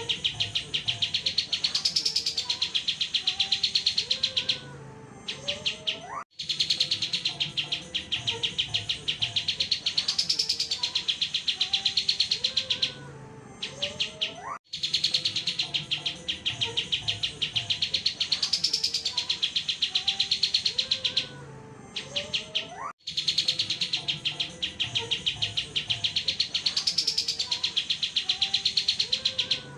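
Looped songbird tutoring recording (masteran): a rapid, continuous trill of fast repeated high notes. The same stretch of about eight seconds repeats over and over, each time with a short break and an abrupt cut.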